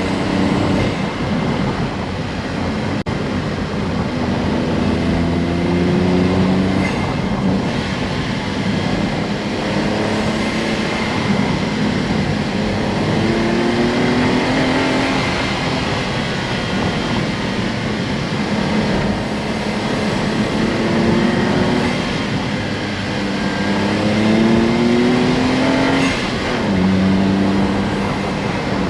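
Honda S660's small turbocharged three-cylinder engine running under load while driving, its pitch climbing several times and falling back as the revs rise and drop.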